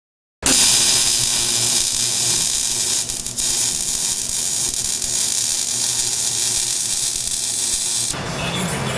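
MIG welder laying a bead on steel exhaust pipe: a steady loud hiss over a faint low hum. It starts abruptly just after the start and stops about eight seconds in.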